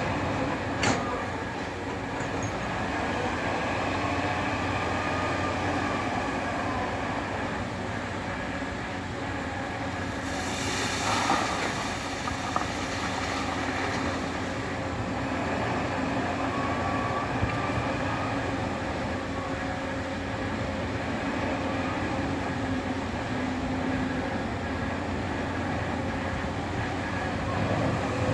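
Scania 164 580's V8 diesel engine running steadily, with a burst of air hiss about ten seconds in.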